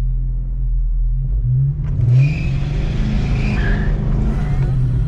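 2006 Dodge Charger R/T's 5.7-litre Hemi V8 running steadily, then rising in pitch about two seconds in as it is put to hard acceleration.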